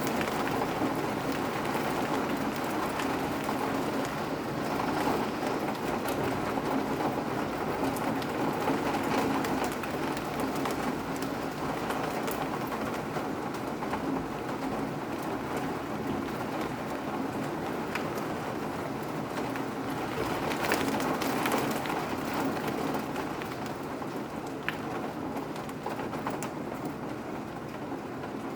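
Steady rain falling, with scattered sharp drips.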